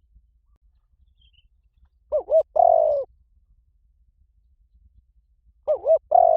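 Spotted dove cooing: two phrases, each two short coos followed by a longer drawn-out coo, about three and a half seconds apart. The second phrase begins near the end.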